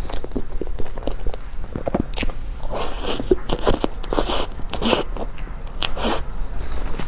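Crunching bites and chewing of a crispy-skinned half-baked cheesecake: an irregular run of short crackling crunches, thickest in the middle.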